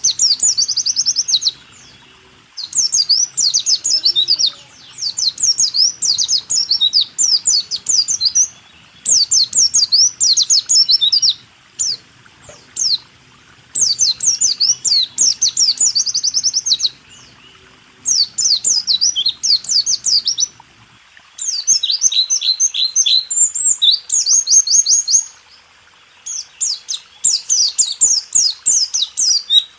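White-eye (pleci) singing its fast rolling 'ngerol tembak' song: rapid, high trilling phrases of one to three seconds broken by short pauses, with a somewhat different phrase that dips lower about two-thirds of the way through.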